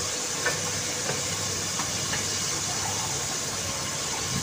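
Ghee sizzling steadily in a pot, frying onion-garlic-ginger paste with freshly added turmeric and red chilli powder, with a few small pops.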